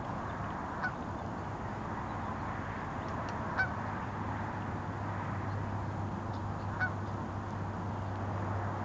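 Three short bird calls, about three seconds apart, over steady background noise; a low steady hum comes in about halfway through.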